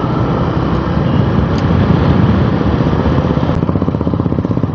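Motorcycle engine running steadily as the bike is ridden, with a fast even pulsing showing in the last second or so.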